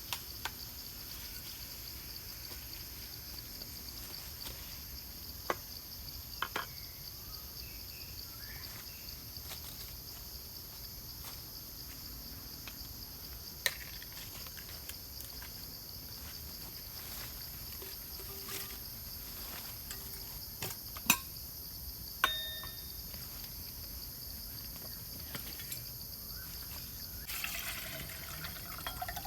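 Quiet camp cooking by a campfire: liquid being poured and dribbled, with scattered sharp clicks and knocks, over a steady high-pitched hiss.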